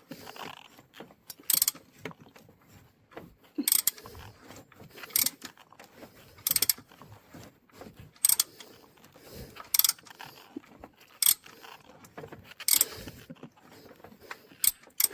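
A hand tool is worked in repeated strokes, giving a short burst of metallic clicking about every one and a half seconds, as the bolt hole in the timing chain cover is cut deeper to take a repair sleeve.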